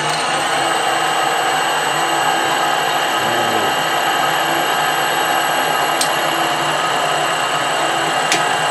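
Metal lathe running steadily with a high whine, turning down a nut blank; two faint clicks about six and eight seconds in.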